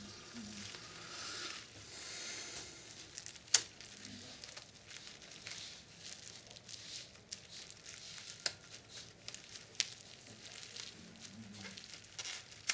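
Hands working on the plastic casing and small parts of a vintage radio cassette recorder being taken apart: rustling and scraping, with one sharp click about three and a half seconds in and a few lighter clicks later.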